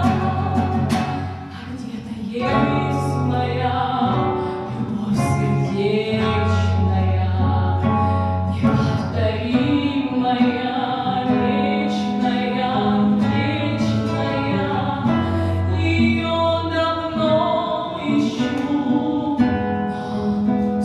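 A woman singing a song to guitar accompaniment.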